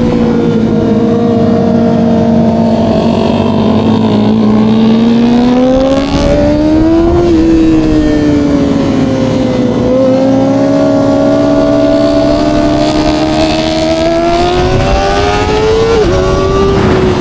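Kawasaki ZX-25R SE's 249 cc inline-four engine running at high revs through an Austin Racing aftermarket exhaust. The pitch climbs and eases with the throttle, with quick dips about halfway through and again near the end.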